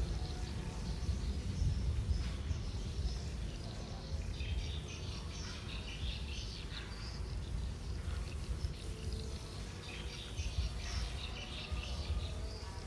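Small birds chirping in short scattered bursts over a steady low rumble.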